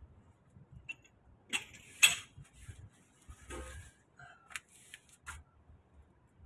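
Scattered metal clinks and knocks of hand tools being handled while a truck wheel is readied for removal, the sharpest about two seconds in.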